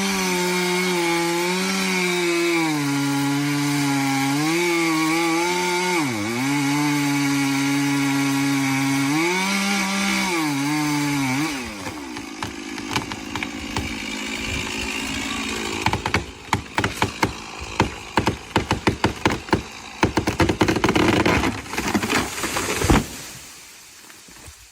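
Chainsaw engine running under load in a cut, its pitch sagging and recovering several times as the chain bites into the wood. About halfway through the engine tone stops, followed by a long run of irregular crackling and snapping that fades out near the end.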